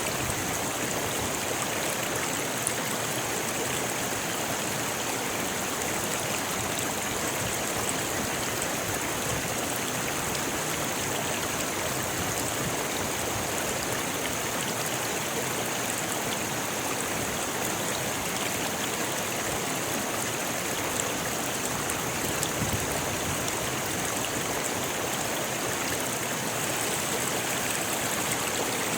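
River rushing over rocks, a steady, even flow with no pauses or changes.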